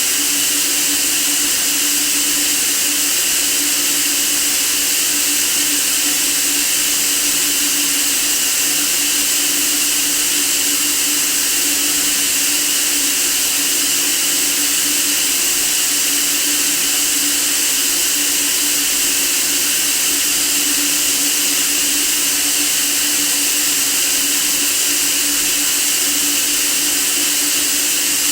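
Steady white noise for sleep: an even, unbroken hiss, brightest in the treble, with a faint steady hum underneath.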